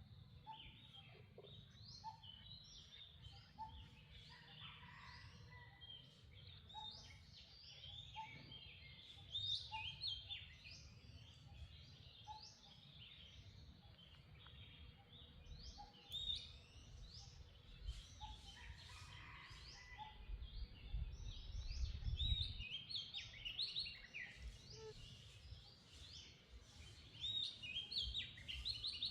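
Outdoor ambience of many birds chirping with short, quick calls, over a low rumble that grows heavier about three-quarters of the way through. A short lower note repeats about once a second through much of it.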